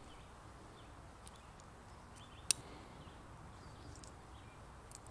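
Faint outdoor quiet with small bird chirps, broken about halfway through by a single sharp click.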